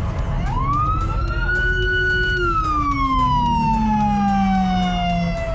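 Siren wailing: the pitch rises quickly, holds for about two seconds, then falls slowly for about three seconds. Near the end it starts to rise again, over a steady low rumble.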